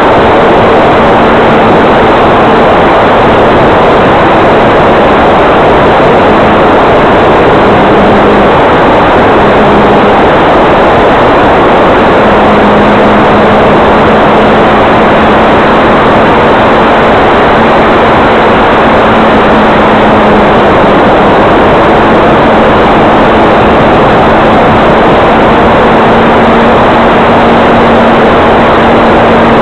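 Electric motor and propeller of a Hyperion O-1 Bird Dog RC plane in flight: a steady hum that wavers slightly in pitch, under loud, even wind rush.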